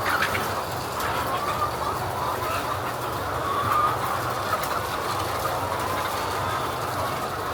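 A crowd of laying hens clucking and calling together over a steady mechanical hum from the poultry house's machinery.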